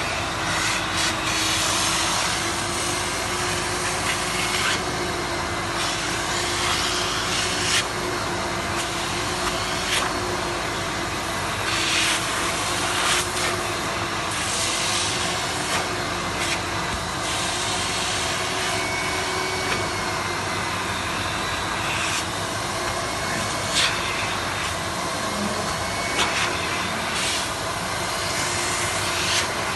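GAMMA 300 wet-cleaning vacuum (carpet extractor) running steadily, with a slightly wavering whine held throughout and brief louder rushes now and then.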